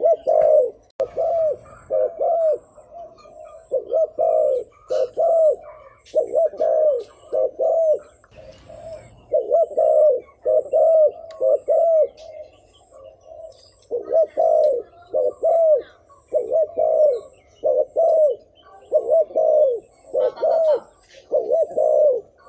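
Spotted dove cooing: short, arched coos repeated over and over in quick runs of two to four notes, the rapid 'thúc gù' bowing call.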